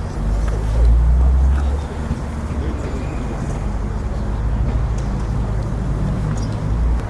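A car engine idling with a deep, low rumble that swells louder about half a second in and eases back after about two seconds.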